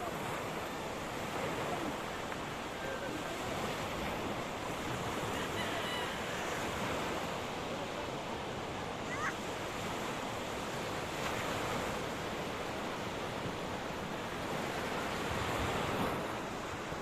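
Sea surf washing on the shore, a steady rush that swells and eases gently in level.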